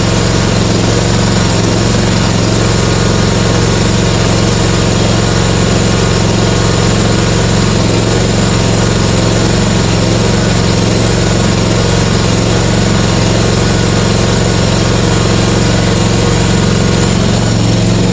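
John Deere riding mower's engine running steadily just after a cold start.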